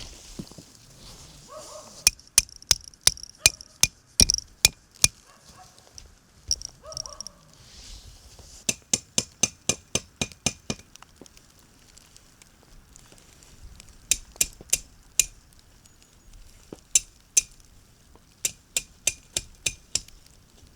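Sharp clinks of a utensil against cookware, in several quick bursts of about four strikes a second with short pauses between.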